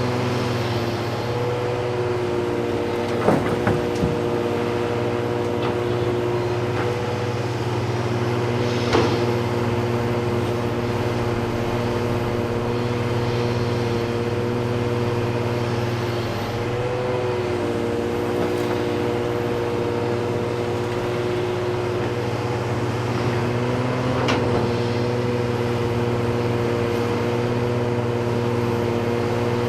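Heavy diesel engines of earthmoving machinery running as a steady drone, broken by a few short sharp clanks, the loudest about three seconds in, about nine seconds in and near twenty-four seconds in.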